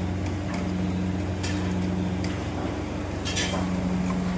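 A steady low mechanical hum from a motor or machine, with a few faint clicks.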